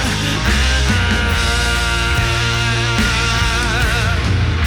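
Live rock band playing between vocal lines: long held notes, wavering near the end, over a steady bass and drums.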